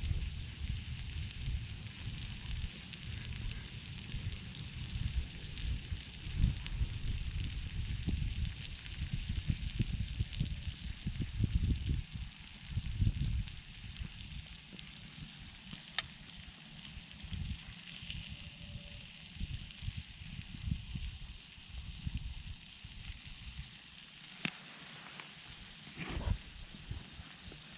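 Meat sizzling on a small iron griddle over a wood campfire, with a steady hiss and scattered sharp crackles and pops. Gusts of wind rumble on the microphone, easing off about halfway through.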